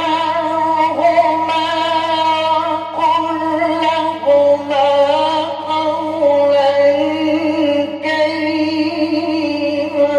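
Male Quran reciter chanting in the melodic mujawwad style, holding long ornamented notes that waver and slide in pitch, over a steady low hum from the old recording.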